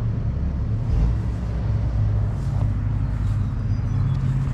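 A steady low engine hum, an engine running at a constant speed.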